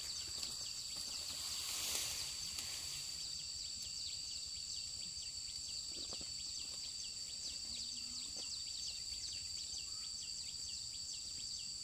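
Field insects buzzing in steady high tones, with a fast, even train of short chirps (about three a second) over them. A brief rustling swell about two seconds in.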